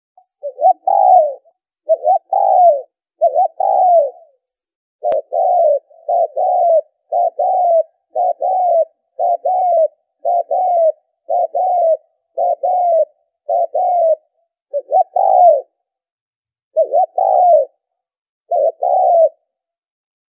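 Spotted dove cooing over and over in short, repeated phrases about a second apart, the kind of recorded call played to excite decoy doves and lure wild ones in for trapping. A single sharp click sounds about five seconds in.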